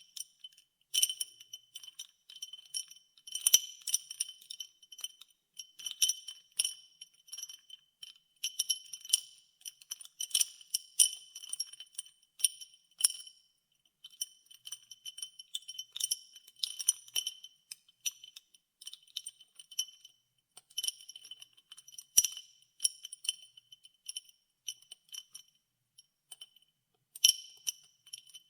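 Ice cubes stirred in a glass of water, clinking against each other and the glass in irregular clusters with bright, high ringing tones.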